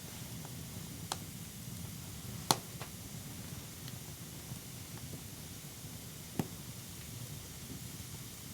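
Wood campfire burning with a steady hiss, broken by three sharp pops. The loudest pop comes about two and a half seconds in.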